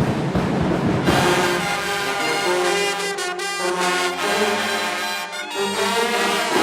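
Marching band playing: drums for about a second, then the brass section comes in with loud held chords over the drums.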